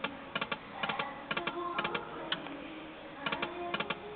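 Timber Wolf video slot machine spinning, with quick clusters of three or four clicks about every half second as the reels stop, over a faint tune from the machine.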